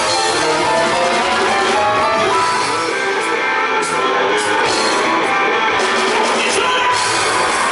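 A rock band playing live, with electric guitar to the fore and little singing. The high cymbal wash thins out for a few seconds midway, with a few separate strokes.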